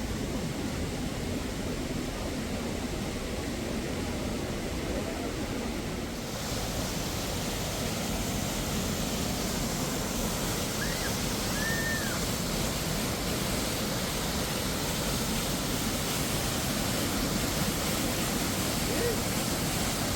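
Steady rushing of falling water, a waterfall's even roar, which turns suddenly brighter and a little louder about six seconds in. A couple of short chirps sound near the middle.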